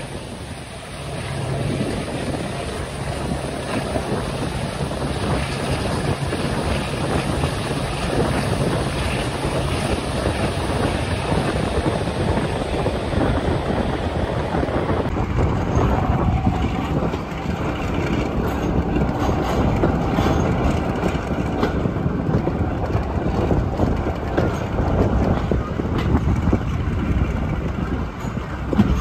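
Passenger train running along the line, heard from an open carriage window: a steady rumble of wheels on the rails with wind buffeting the microphone. About halfway through it turns thinner, with scattered clicks.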